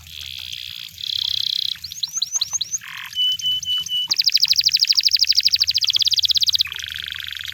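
Canary singing a varied song of short phrases: buzzy rolls, quick downward-swept whistles and short repeated notes, then a long fast trill from about four seconds in, followed by another buzzy roll near the end. A faint low hum runs underneath.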